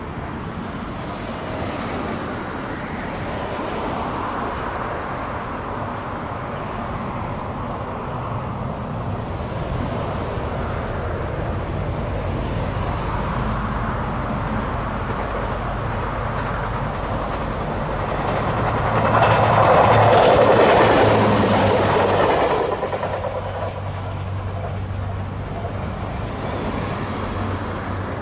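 JR Kyushu diesel railcar train on the Omura Line approaching, passing close by and running away, loudest about two-thirds of the way through. A steady low engine hum runs under it, with a brief high squeal from the wheels as it passes.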